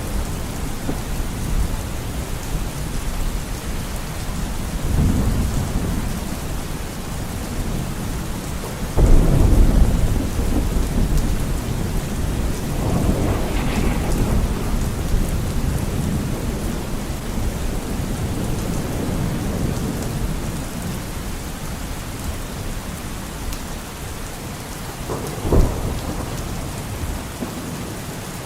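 Steady heavy rain with rolling thunder. A sudden, loud clap of thunder about nine seconds in, with lower rumbles before and after it, and a shorter, sharper crack near the end.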